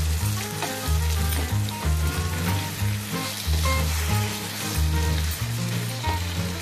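Marinated chicken pieces and sliced onions sizzling in hot oil in a frying pan while a spatula stirs them. Background music with a heavy, rhythmic bass line plays over it and is the loudest thing.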